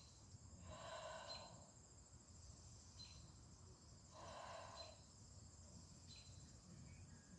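Near silence: two faint breaths, one about a second in and one about four seconds in, over a steady high chirring of insects.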